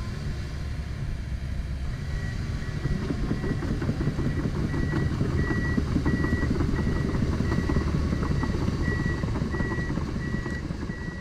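Komatsu PC170LC-10 hydraulic excavator running under load, its engine rumbling. From about two seconds in, a beeping alarm sounds about twice a second, and the engine works harder just after the beeping starts.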